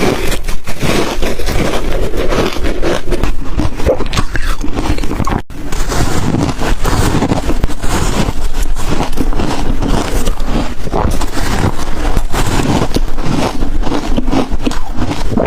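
Ice being bitten and chewed close to the microphone: a dense, continuous run of crackling crunches, broken by a brief gap about five and a half seconds in.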